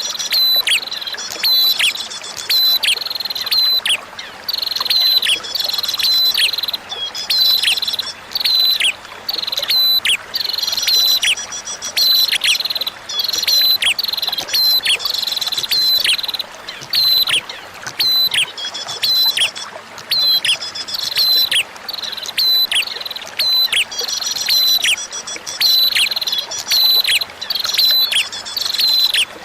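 Prinia (prenjak) song: loud, high chirps repeated rapidly in short phrases one after another, over a faint trickle of running water.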